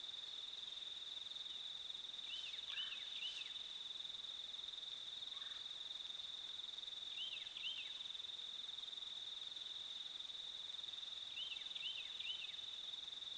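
A bird calling in short phrases of three quick chirps, three times, over a steady high-pitched whine.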